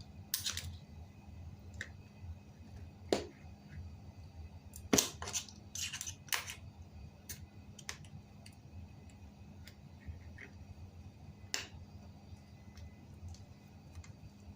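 Scattered sharp clicks and short scraping noises of things being handled, the loudest about three and five seconds in, over a low steady hum.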